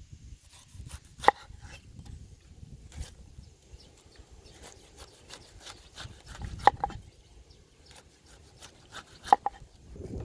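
Knife chopping on a cutting board: three hard chops, about a second in, at about six and a half seconds and about nine seconds in, with lighter taps and scraping in between.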